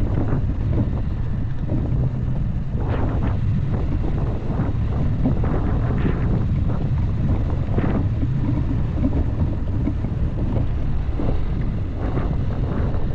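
Dacia Duster driving off-road: a steady low rumble of engine and tyres with wind buffeting the microphone, and scattered knocks from the rough ground.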